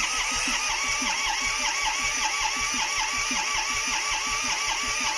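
John Deere 855 compact tractor's three-cylinder diesel engine being cranked over by the starter in an even, rhythmic chug without catching. It cranks but won't start, which the owner puts down to fuel or heat rather than a worn engine.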